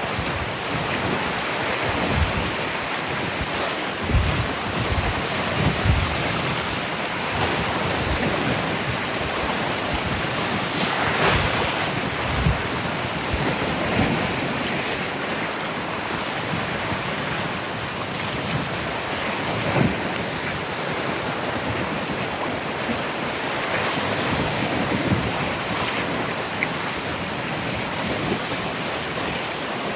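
Ocean surf washing steadily onto a beach, with wind on the microphone. Occasional short low bumps are heard through it.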